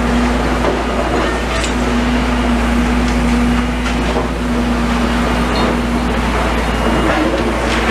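Heavy diesel machinery running steadily, with a constant low rumble and a steady hum, and a few faint knocks.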